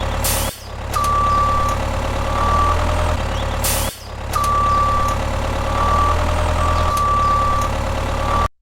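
Heavy truck idling with a reversing beeper sounding on and off and two short air-brake hisses, about half a second in and just before four seconds in. It all cuts off suddenly near the end.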